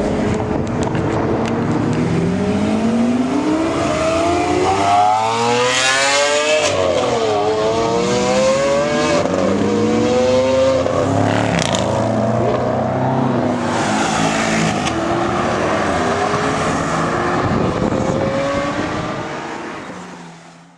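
Lamborghini Aventador V12 with aftermarket sports exhaust running hard, its pitch climbing steeply and falling back several times, with a few sharp cracks in the middle. The sound fades out near the end.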